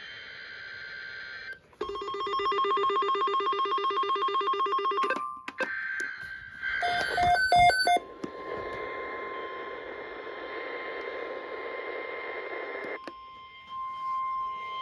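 NOAA Weather Radio alert signalling on weather radio receivers. It starts with electronic alert tones, then a rapid warbling alarm from about two seconds in, lasting about three seconds. A cluster of short beeps follows around seven seconds. Then comes a steady tone over radio static, and the static cuts off about thirteen seconds in.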